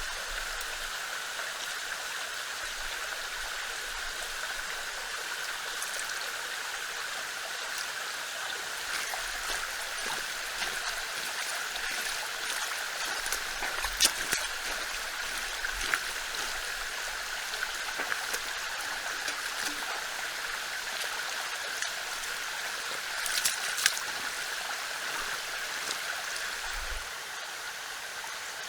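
Steady rushing of running water from a stream, with a few sharp clicks, the loudest about halfway through and two close together near the end.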